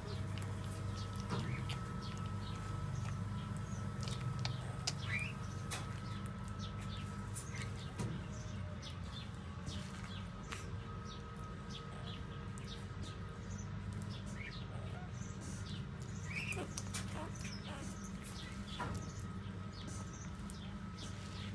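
Four-day-old puppies suckling at their mother, with many small wet clicks of sucking and a few short high squeaks. A steady low hum runs underneath.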